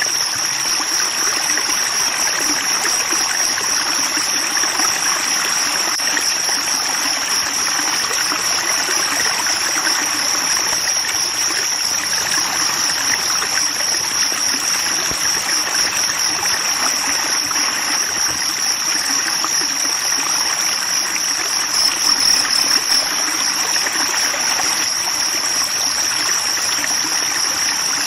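Flowing stream water, with a steady high-pitched trill running throughout over it that briefly gets louder a little past the middle.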